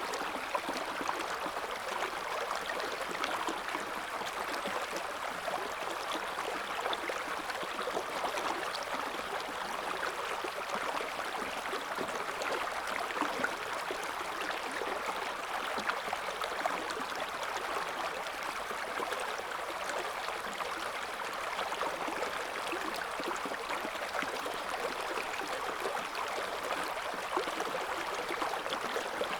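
River water flowing over rocks: a steady rushing and babbling with small splashes flickering through it, unchanging in level.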